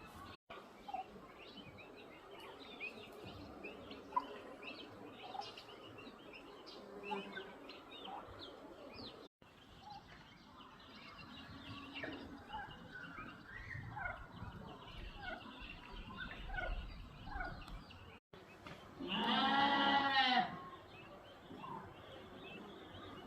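Small birds chirping and calling throughout, with a loud, drawn-out pitched animal call lasting about a second and a half near the end.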